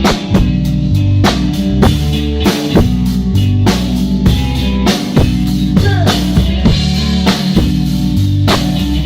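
A band playing an instrumental stretch of a song with no singing: a drum kit keeps a steady beat, about two hits a second, under bass and guitar.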